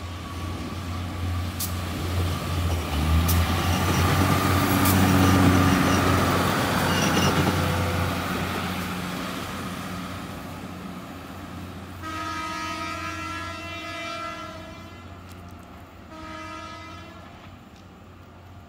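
A train passing close by, its rumble and wheel noise swelling to a peak about five seconds in and then fading away. About twelve seconds in the train horn sounds a long blast, followed by a short one a few seconds later.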